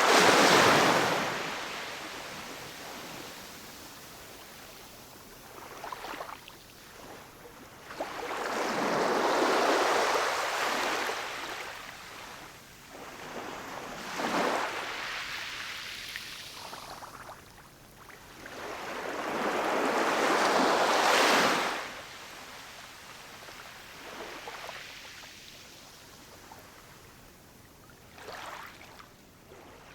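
Ocean surf: waves breaking on a shore and washing back, rising and falling in broad surges. Three big waves come about ten seconds apart, with smaller washes between them.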